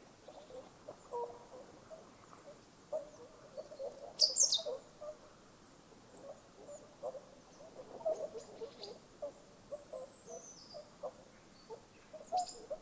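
Birds calling: a run of short, soft low notes, with a loud, sharp high chirp about four seconds in, a falling high whistle near ten seconds, and a few more high chirps near the end.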